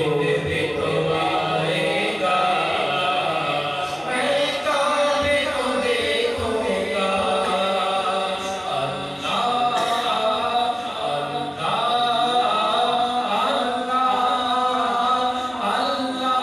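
A man chanting an Urdu naat, an Islamic devotional song, in a continuous melodic line with an added echo effect.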